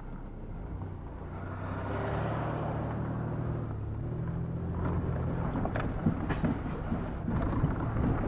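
Vehicle engine and road noise heard from inside the moving vehicle. The engine note rises a little about two seconds in. From about five seconds on there are repeated rattles and knocks.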